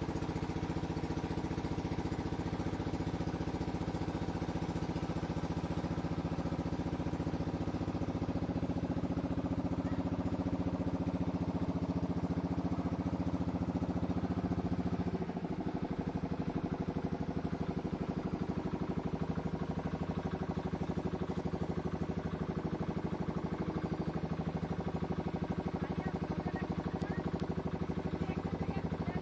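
A river boat's engine running steadily. It falters briefly about halfway through, then runs on a little quieter.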